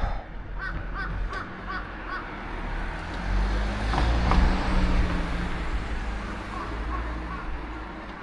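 A bird gives a quick series of about six short calls, then a passing vehicle swells to its loudest about four seconds in and slowly fades.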